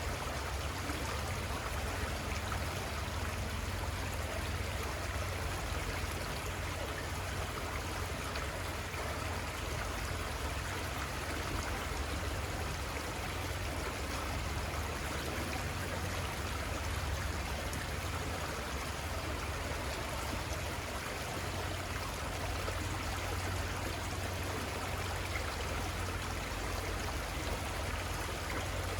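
Little Conestoga River flowing: a steady, unbroken sound of running stream water.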